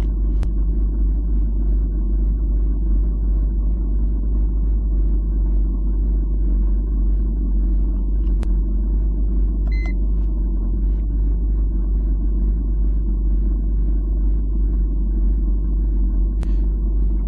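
Steady low rumble with faint ticking about two to three times a second, and one short electronic beep about ten seconds in from a handheld car diagnostic scan tool.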